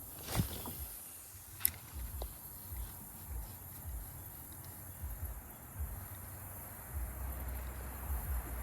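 Faint steady high-pitched insect chorus in the background, with a few sharp clicks and light knocks.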